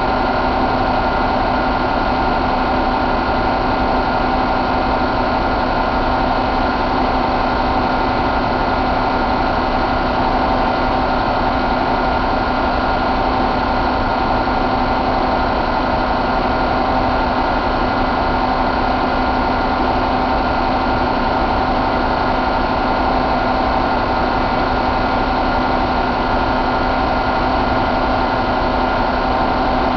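2014 Volvo D13 inline-six diesel engine idling steadily.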